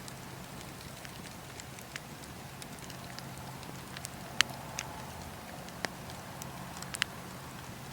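Wood fire crackling in a fireplace: scattered sharp pops and snaps over a steady low rumble of the flames, with the loudest pops about four and a half seconds in and near seven seconds.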